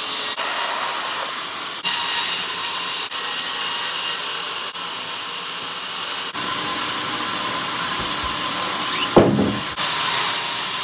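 Sawmill bandsaw blade cutting lengthwise through a log, a steady hissing rasp, with a short louder burst and a falling whine about nine seconds in.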